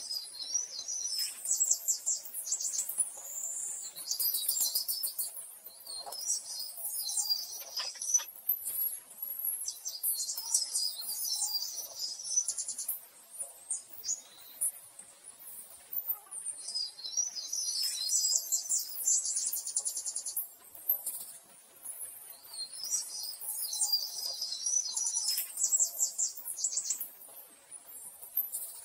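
Small birds chirping and trilling in high-pitched, repeating phrases, with fast trills every few seconds.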